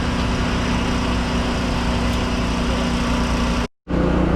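Mini excavator's diesel engine running steadily at a constant speed. The sound cuts out for a moment near the end, then a similar steady engine sound resumes.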